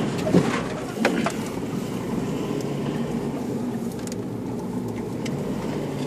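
4x4's engine running steadily, heard from inside the cabin as it drives over a rutted sandy track, with a few knocks and rattles from the bouncing vehicle in the first second or so.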